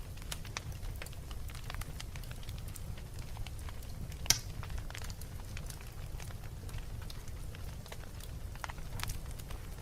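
Wood fire crackling in a fireplace: scattered small snaps over a steady low rumble, with one louder pop about four seconds in.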